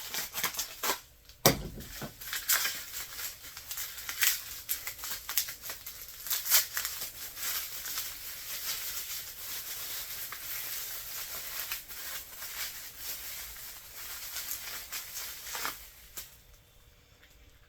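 An accessory pack's packaging crinkling and tearing as it is opened by hand, with one sharp knock about a second and a half in. The rustling stops near the end.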